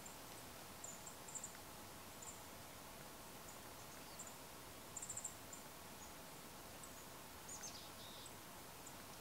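Faint high-pitched chirps from small birds in short scattered clusters, with one longer falling call near the end, over a steady quiet hiss.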